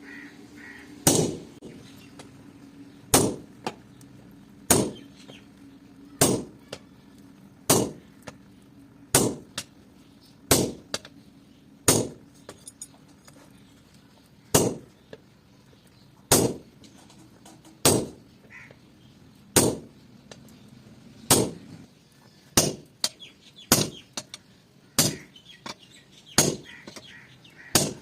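Hand hammer striking steel on an anvil in slow, even blows about one every one and a half seconds, each a sharp clang with a short ring. A faint steady low hum sits beneath.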